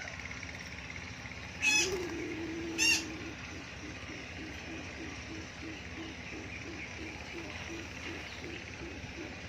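A dove cooing low: one drawn-out coo, then a run of short coos about three a second. Two sharp, high chirps stand out near 2 s and 3 s in.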